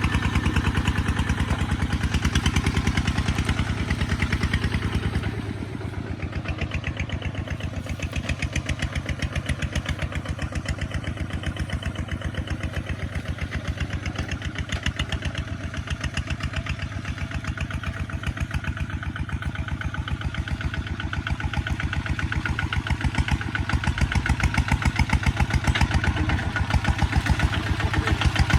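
Kubota ZT155 single-cylinder diesel engine running steadily under plowing load, with evenly spaced firing pulses. It eases back a little about five seconds in and grows louder again near the end.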